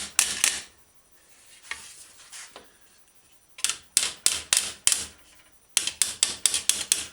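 Hammer blows on a wooden block held against a steel bicycle fender, knocking out a dent. A few sharp strikes, a pause of about three seconds, then two quick runs of six or seven strikes.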